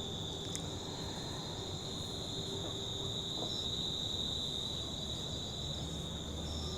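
Insects, crickets or similar, chirring in a steady high-pitched drone that doesn't let up.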